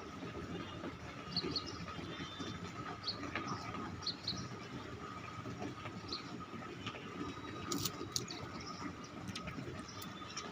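Steady background hum and hiss with scattered short, high chirps, and a couple of sharp clicks about eight seconds in; no cat meowing stands out.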